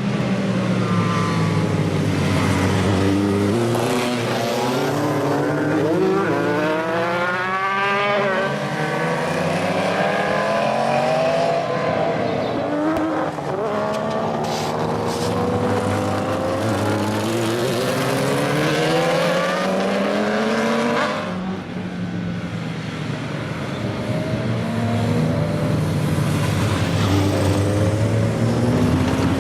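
Several pre-1980 motorcycle engines running together, their notes repeatedly rising and falling with the throttle and overlapping, with a short lull about two-thirds of the way through.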